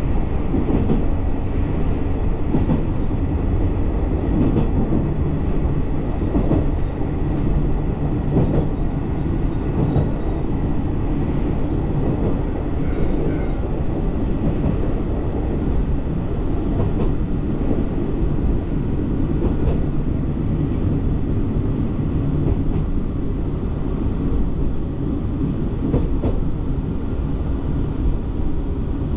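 A diesel railcar on the Ōminato Line, heard from inside: steady engine and wheel running noise while travelling at speed, with a few faint knocks from the track.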